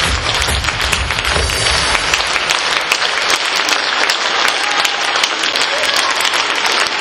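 Audience applauding, with the last notes of the musical accompaniment fading out in the first two seconds.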